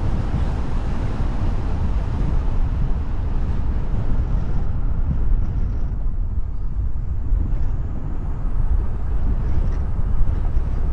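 A car being driven on a road: a steady low rumble of tyres and engine, with the hiss thinning out for a few seconds in the middle.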